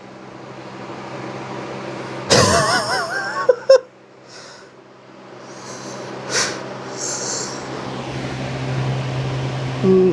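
Lasko B20200 box fan motor humming while the fan shakes hard, thrown out of balance by its broken blade. Between two and four seconds in there is a brief loud wavering noise and a couple of sharp clicks. After that the hum drops away and then builds steadily louder.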